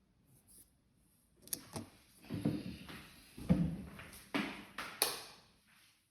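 Handling noises: after a quiet start, a run of clicks, knocks and short scraping or sliding sounds, the loudest a dull thump about halfway through.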